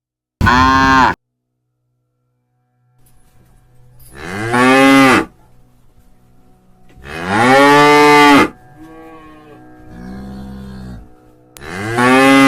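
Cattle mooing: a short moo under a second in, then several long moos a few seconds apart, one of them lower and softer, over a faint steady low hum.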